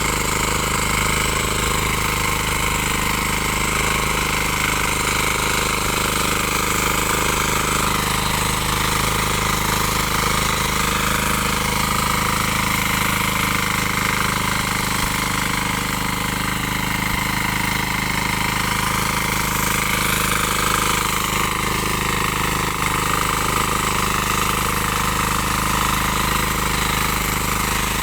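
7 hp diesel engine of a power tiller running steadily at an even speed.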